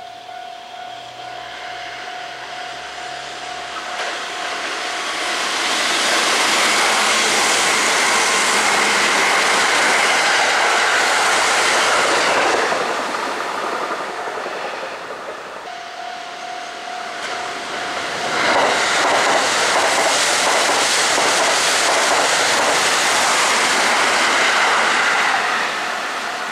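Electric express trains passing close on the tracks: two passes of steady wheel-on-rail running noise, the first about six seconds in and the second from about eighteen seconds, each swelling and then fading as the train runs past and away. A steady single tone sounds before each pass, and the second pass is a red Kintetsu limited express.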